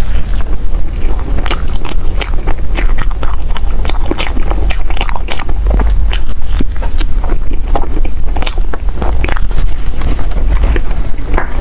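Close-miked eating sounds of soft desserts: biting and chewing, with many quick, irregular wet clicks over a steady low rumble.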